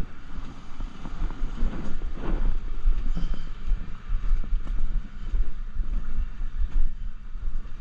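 Wind buffeting a body-worn microphone: an uneven low rumble, with a few faint knocks of handling.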